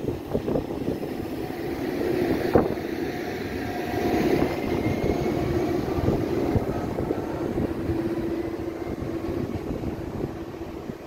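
TER regional train pulling away past the platform: wheels rumbling on the rails under a steady motor whine that rises slowly in pitch midway, with a single sharp click a little over two seconds in.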